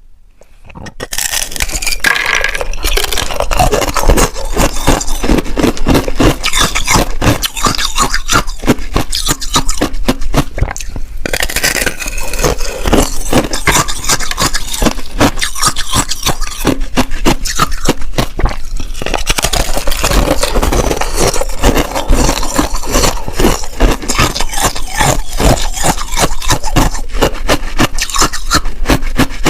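Soft shaved ice being bitten and chewed close to the microphone: loud, dense, continuous crunching and crackling that fades in over the first second or so.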